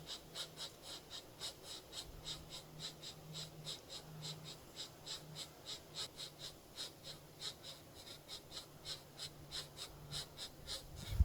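Pileated woodpecker nestlings begging from inside a tree cavity: a steady run of short, raspy notes, about four or five a second.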